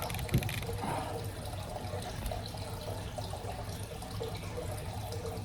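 Steady low hum with a faint even hiss of room background, and one short knock about a third of a second in, like a plastic soap bottle being handled.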